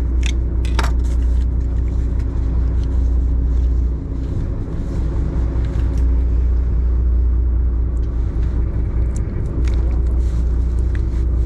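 Party boat's engine running with a steady low drone, with a couple of sharp clicks near the start.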